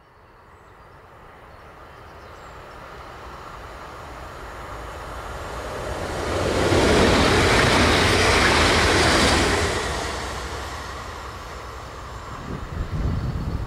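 Electric train approaching and passing at speed: a rushing rumble that swells to a loud peak about halfway through, then eases off, with a low rumbling and uneven thumps near the end.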